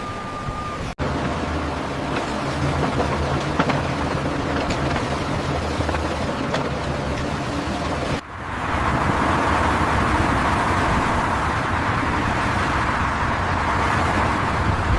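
Steady machinery noise with a low, engine-like hum, broken by two abrupt cuts. After the second cut, about eight seconds in, it gives way to a louder, even rushing noise.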